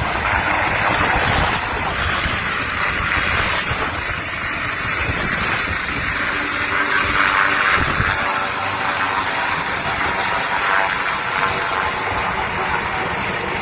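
Ambulance helicopter's turbine engines and rotor running at take-off power, a steady high whine over a loud rotor rush, during a reverse take-off. The heavy low rumble thins out about eight seconds in while the whine carries on.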